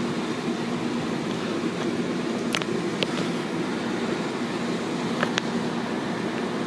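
Steady mechanical hum of car wash machinery, with a few sharp clicks in the middle.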